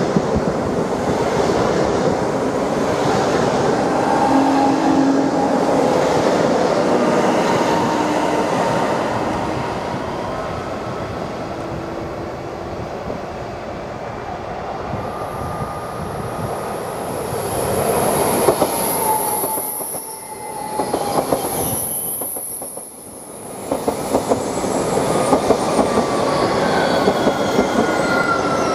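Electric trains running through the station: first the ED161 Dart electric multiple unit beside the platform, then the ED250 Pendolino coming in alongside. A high-pitched wheel squeal sounds for several seconds past the middle.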